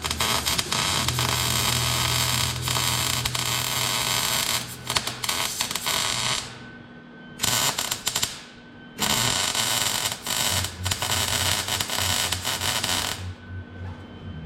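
MIG welder laying beads on a stainless steel exhaust pipe: a steady crackling hiss in three runs, a long one of about six seconds, a short one, and one of about four seconds.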